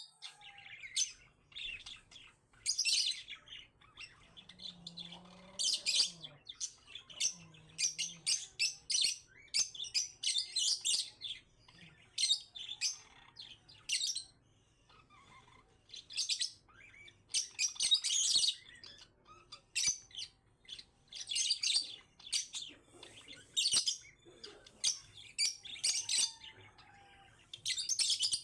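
Parakeets chirping and chattering: quick runs of short, high chirps that come in bunches with brief pauses between them.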